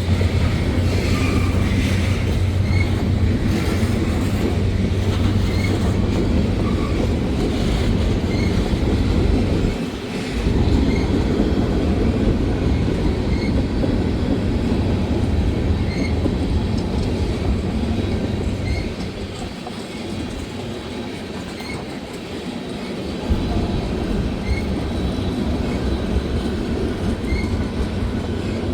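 Train cars rolling past on the rails: a steady rumble with light, regularly spaced clicks from the wheels. The rumble drops somewhat about two-thirds of the way through, then picks up again.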